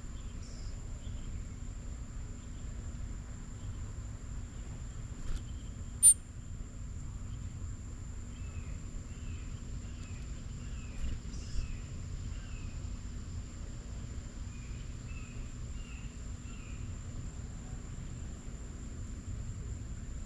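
Small birds chirping in short repeated calls, mostly from about eight to seventeen seconds in, over a steady high-pitched whine and low outdoor rumble. One sharp click about six seconds in.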